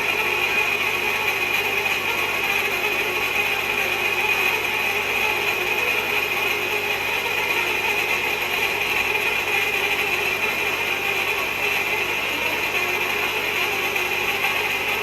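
Steady, continuous mechanical noise with a constant high ringing tone.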